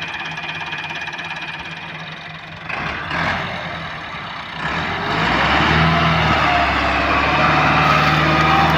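Massey Ferguson 385 tractor's diesel engine running, with a brief surge about three seconds in, then revving up about five seconds in and holding a louder, steady note as it pulls a loaded trolley.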